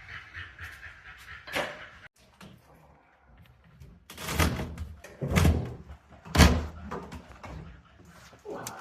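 Heavy thuds and knocks from an old countertop being broken loose and handled during demolition, with three loud, deep bangs about a second apart past the middle.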